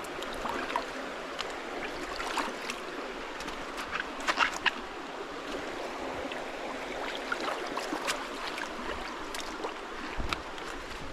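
Shallow creek water running steadily, with scattered splashes from slippers being rinsed in the stream. The splashes are loudest about four seconds in.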